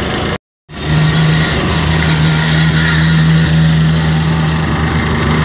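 Rally car engine running at a steady speed: a constant low hum over engine noise. The sound drops out briefly near the start at an edit, then comes back at full level.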